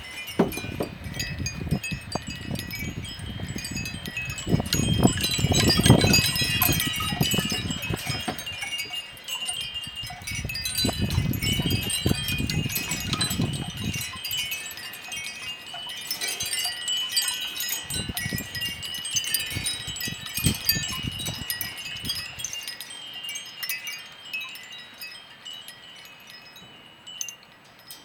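Wind chimes jangling without pause in gusty blizzard wind, while gusts buffet the microphone in surges. The strongest gust comes about five seconds in, and the wind rumble drops away in the last few seconds.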